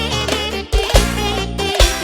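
A live band playing music: a wavering, ornamented lead melody over a steady bass and drum beat.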